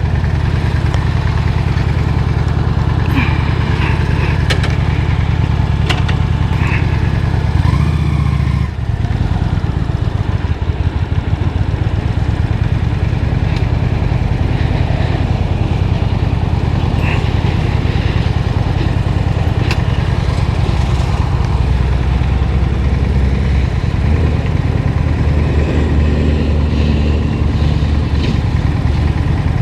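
Honda Shadow 750's V-twin engine running steadily at low speed, with a brief dip in level about nine seconds in.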